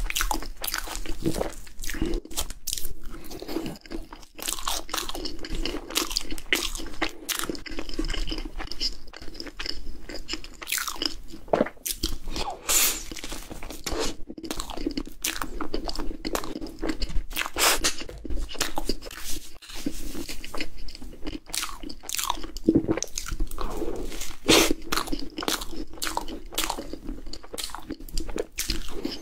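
Close-miked crunching and chewing of a cream puff with a crisp, crackly choux top: a dense, irregular run of bites and crunches.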